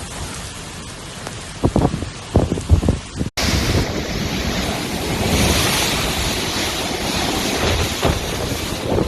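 Heavy rain with wind buffeting the microphone and a few low thuds in the first seconds; after an abrupt cut about three seconds in, a louder, steady rush of wind and water.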